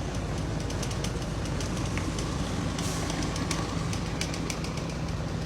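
Heavy diesel engine of construction machinery running steadily, with a run of sharp clicks and metallic knocks over it, thickest around the middle.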